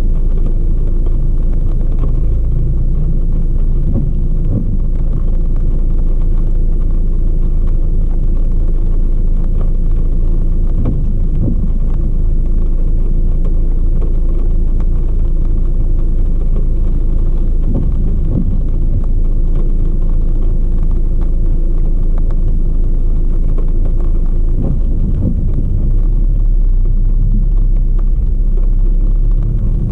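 A car driving along with a steady low rumble of engine and road noise.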